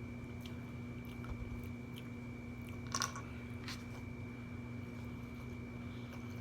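A person chewing and biting food close to the microphone, with small mouth clicks and a sharper double click about three seconds in, over a steady electrical hum.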